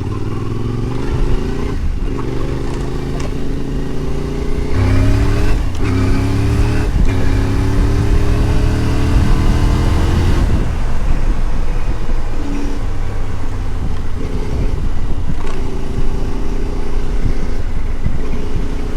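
CF Moto 450 MT parallel-twin motorcycle engine accelerating through the gears. The pitch climbs, drops briefly at each of about four upshifts, then eases off a little past halfway and settles into a steady cruise.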